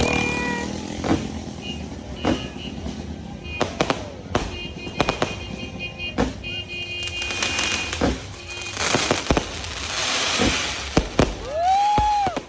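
Fireworks going off: repeated sharp bangs at irregular intervals, a stretch of dense crackling about two-thirds of the way through, and high whistles, one rising and falling near the end.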